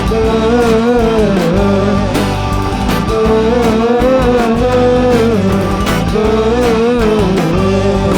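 Live rock band of drums, bass, guitars and keys playing an instrumental passage between sung verses, with a lead melody that bends and wavers in pitch over the steady band.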